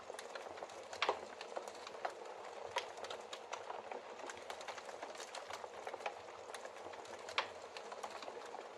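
Wood fire crackling: burning logs giving a steady hiss with frequent sharp pops, two louder pops about a second in and near the end.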